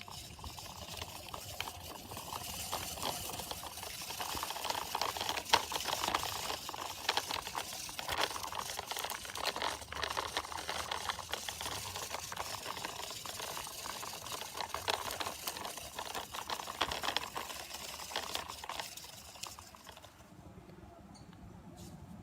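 Toy quad bike's small plastic wheels rolling over the ground as it is pushed by hand: a crackling rolling noise with many small clicks, rising and falling as it moves, stopping near the end.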